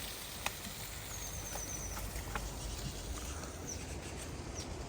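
Quiet woodland ambience: a small bird gives a short, quick trill of high chirps about a second in and a few single high chirps near the end, with scattered faint pops and clicks.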